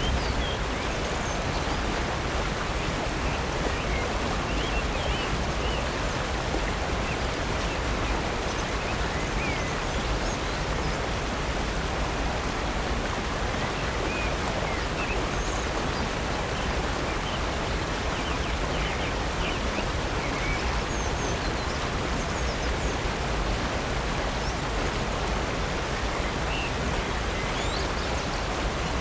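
Steady rush of water from Upper North Falls and Silver Creek, with a few faint bird chirps scattered through it.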